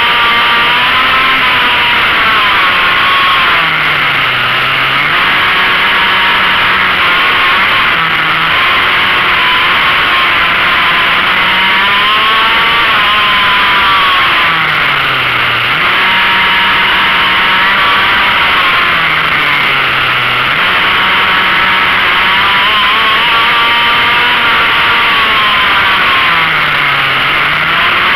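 Onboard sound of a motorcycle engine lapping a track, its pitch climbing and falling as the throttle opens and closes, and dropping low about five times as the bike slows for corners. A steady rush of wind runs underneath.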